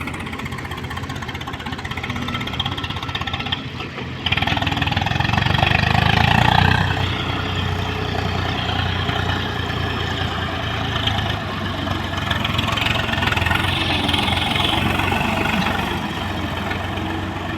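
Diesel machinery engine running steadily. About four seconds in it steps up sharply and swells for a couple of seconds, then settles into a steady drone.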